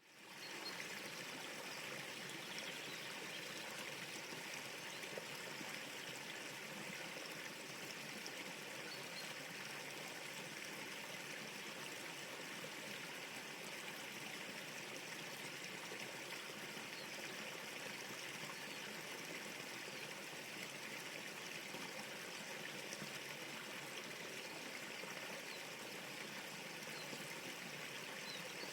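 River water flowing: a steady, even rush of moving water that fades in at the start and holds level.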